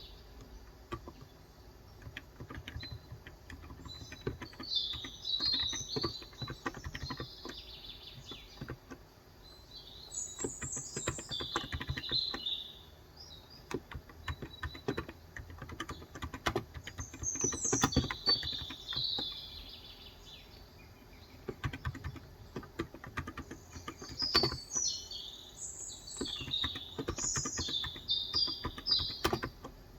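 Typing on a COX Endeavour electro-capacitive (contactless), 35 g tenkeyless keyboard, the keystrokes coming in irregular runs. Birds chirp in bursts of quick high notes now and again.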